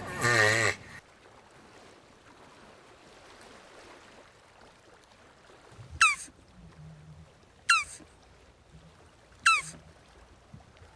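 Jabuti tortoise vocalising. A groaning call with a wavering pitch ends about a second in, and in the second half come four short squeaky calls, each falling in pitch, at intervals of a little under two seconds.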